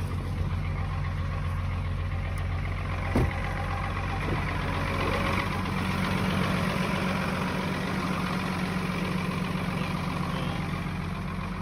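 1999 Dodge Ram 2500's 5.9-litre 24-valve Cummins inline-six turbodiesel idling steadily while cold, just after a subzero start and before it goes into high idle. A single sharp click comes about three seconds in.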